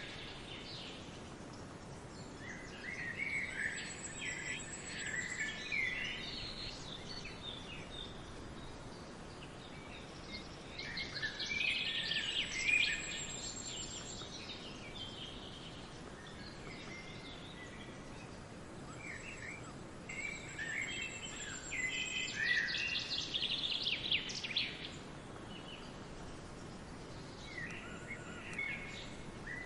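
Songbirds chirping and twittering in bouts a few seconds apart, with a few thin, high whistled notes, over a steady background hiss.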